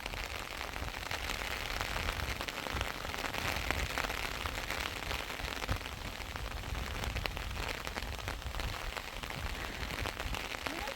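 Heavy rain falling steadily, a dense hiss of many small drop ticks.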